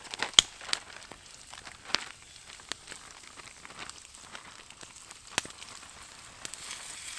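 Campfire crackling with sharp, scattered pops. Near the end a sizzle rises as marinated moose meat and vegetables go into the hot frying pan over the fire.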